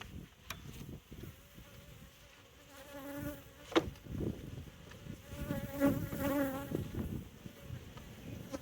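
Honeybees buzzing close to the microphone around an open hive, a wavering buzz that swells twice, briefly around three seconds in and again around six seconds. A sharp click sounds near four seconds.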